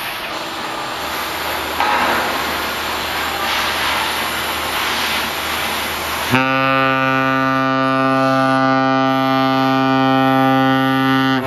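A ship's horn sounds one long blast at a steady pitch. It starts abruptly about six seconds in, over wind and engine noise, and lasts about five seconds.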